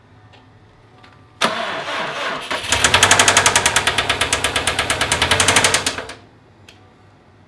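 Subaru turbocharged flat-four engine cranked over, catching and running for about three seconds with a fast, even knock, then shut off abruptly. The knock is the rod knock it has been diagnosed with, a worn connecting-rod bearing that left copper shavings in the oil.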